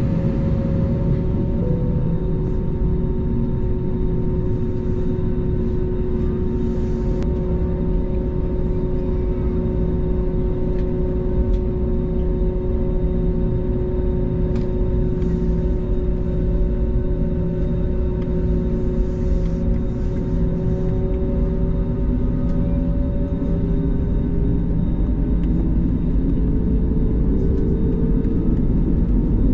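Airbus A320neo cabin noise in flight: a steady low rumble of engines and airflow with a droning engine hum of a couple of steady tones. The tones drift slightly in pitch in the last few seconds.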